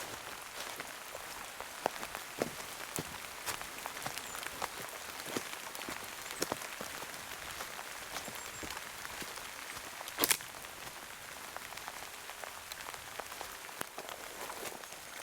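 Heavy rain falling, a steady hiss with many scattered sharp ticks of single drops, and one louder knock about ten seconds in.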